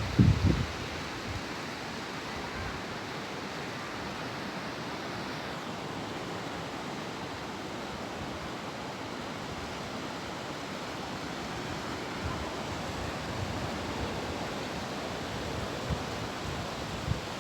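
Steady wash of ocean surf breaking on a beach. A brief gust of wind buffets the microphone right at the start.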